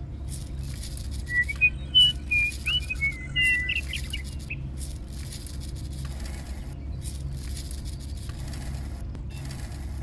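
Small birds chirping a quick run of short, high calls in the first half, over a steady low hum and scattered faint clicks.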